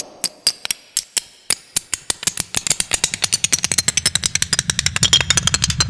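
Children's plastic blocks clacking together, used as impact sounds with only a smooth pitch change applied. They start as scattered single clicks and speed up into a dense, rapid clatter, with a low rumble building underneath from about two seconds in.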